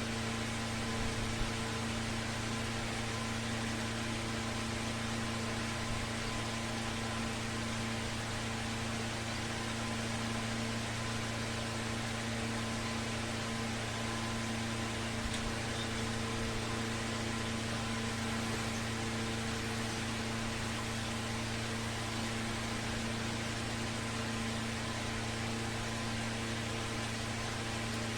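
Steady hum of a ceiling fan's electric motor running, a low drone with an even hiss over it.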